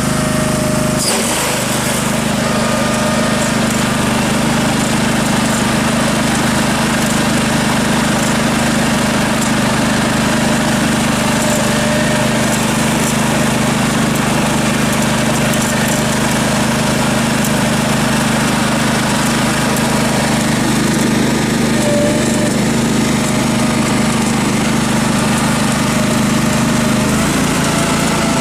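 Case 446 garden tractor engine running steadily under load, driving its front-mounted snowcaster. The snowcaster drive is slipping, which the owner first blamed on the belt and then on a slipping sprocket or stretched chain. The engine tone shifts slightly near the end.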